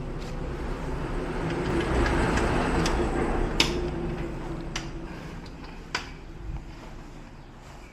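A vehicle passing: engine and road noise that swell to a peak a couple of seconds in and then fade away, with a few sharp clicks along the way.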